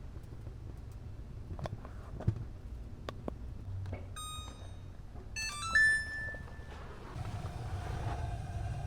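Electronic beeps from a gas range's oven control panel as keys are pressed, after a few light clicks. A steady hum with a low rumble starts about seven seconds in and keeps going.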